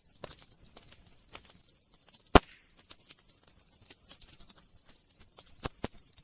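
Campfire crackling: scattered small pops and snaps over a soft hiss, with one loud sharp pop about two seconds in and two more pops near the end.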